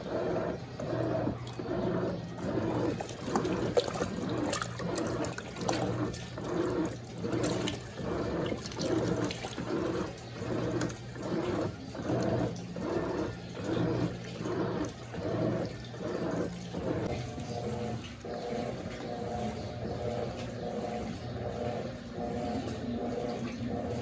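Brastemp Eggo 1 kg mini washing machine agitating its load: a motor hum with water swishing in an even pulse about one and a half times a second. In the last few seconds the pulsing gives way to a steadier hum.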